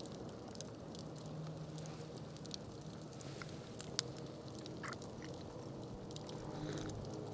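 Wood campfire crackling: scattered sharp pops and snaps over a low steady rush, with one louder pop about four seconds in.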